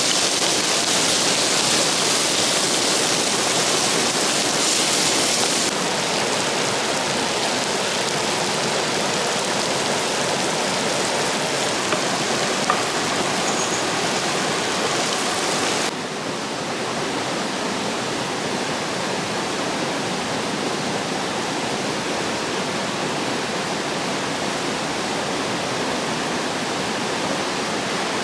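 Steady rush of falling water from a waterfall. Its level and brightness drop abruptly twice, about six seconds in and again about sixteen seconds in.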